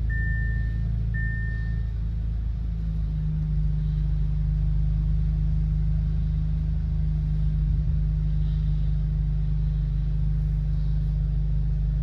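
The 2.0-litre turbocharged inline-four of an Audi S3 with an AWE aftermarket exhaust idling, heard from inside the cabin as a steady low drone that firms up slightly about three seconds in. Over the first two seconds, a short high warning chime from the car sounds twice.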